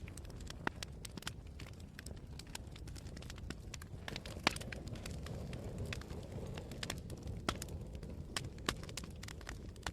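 Campfire burning: a steady low rumble of the flames with irregular sharp crackles and pops from the burning wood, one louder pop about four and a half seconds in.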